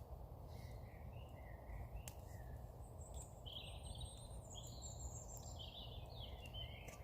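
Small birds chirping and trilling in short calls, high-pitched and intermittent, over a faint steady low background rumble.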